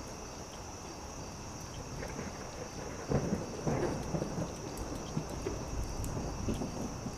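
Campfire crackling, with scattered small snaps over a low rumble that swells about three seconds in. A steady high chirring of night insects runs underneath.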